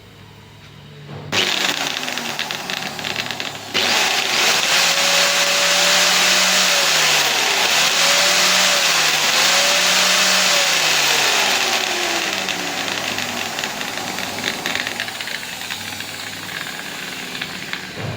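Angle grinder's electric motor running at speed with a high whine and hiss. It starts about a second in, gets louder near four seconds, dips in pitch and recovers three times, then slowly winds down.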